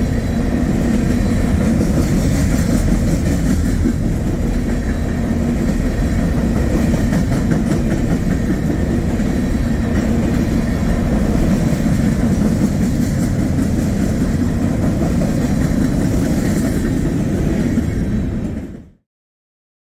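A train rolling past close by: a steady, loud rumble of wheels on rail that cuts off abruptly near the end.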